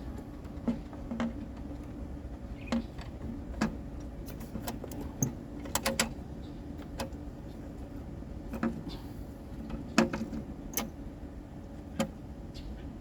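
Irregular light clicks and knocks of hand tools and metal parts being handled on an engine, about a dozen spread over the span, the sharpest about ten seconds in, over a steady low hum.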